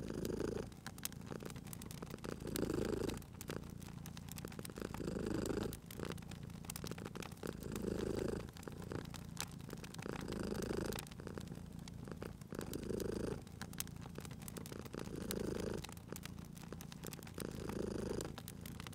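Domestic cat purring, swelling louder about every two and a half seconds with each breath, over the scattered sharp crackles and pops of a wood fire.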